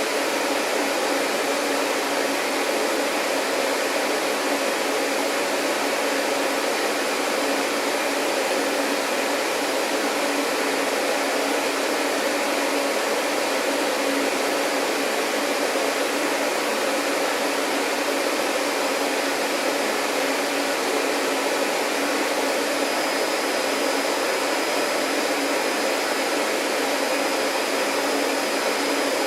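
Vacuum cleaner running steadily: a continuous, even motor-and-airflow noise at one pitch. A faint high whine joins in about two-thirds of the way through.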